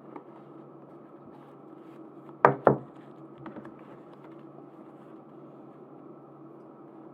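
Hands handling merchandise and packaging: two sharp clicks about a quarter-second apart, a little under three seconds in, with faint ticks of handling over a steady background hum.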